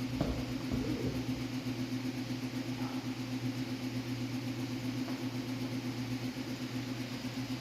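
Steady low hum of a running machine, holding one even pitch throughout.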